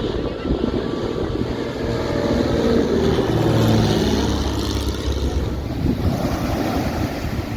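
Jet aircraft engines rumbling past low overhead, swelling to a peak around the middle with a falling pitch, then easing, over wind on the microphone and surf.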